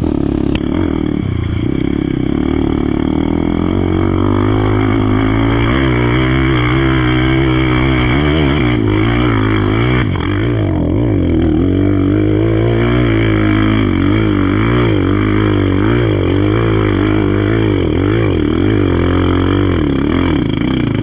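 Off-road vehicle's engine running hard under load, its pitch rising and falling again and again as the driver works the throttle on a slippery climb.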